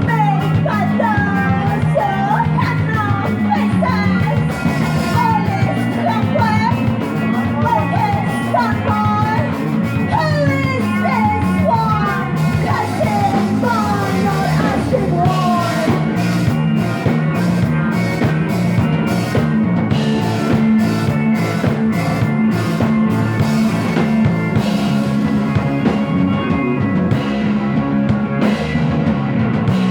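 Rock music from a band with bass and drum kit. A lead line of bending notes stands out for roughly the first half, and the drums and cymbals come forward after that.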